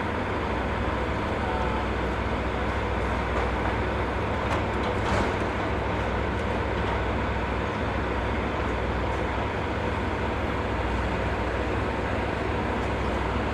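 Steady low rumble of demolition machinery and road traffic, with a brief clatter about five seconds in.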